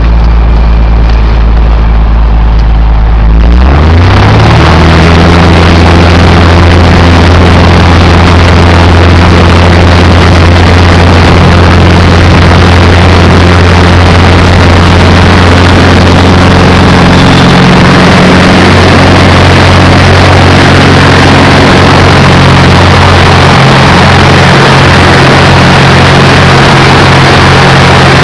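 Zlin Z142 light aircraft's six-cylinder piston engine (Walter M337) and propeller, throttled up about three and a half seconds in with a quick rise in pitch, then running steadily at full takeoff power.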